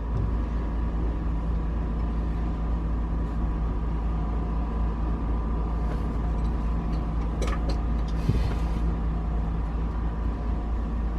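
A steady low rumble with a faint continuous hum at an even level, and a couple of faint ticks partway through.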